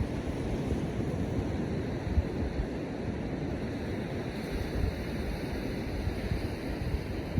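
Surf washing on the beach in a steady rush, with wind buffeting the microphone in uneven low rumbles.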